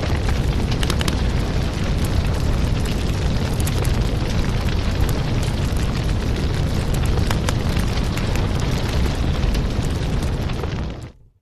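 Crackling wood fire: a steady low rumble with scattered small crackles and pops. It fades out to silence right at the end.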